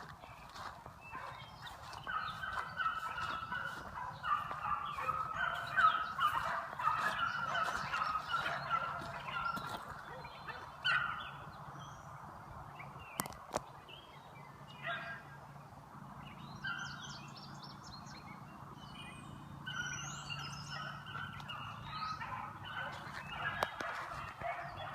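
A pack of beagles baying while running a trail, several hounds' voices overlapping in choppy bursts. The baying is thickest in the first half, thins out in the middle and picks up again near the end.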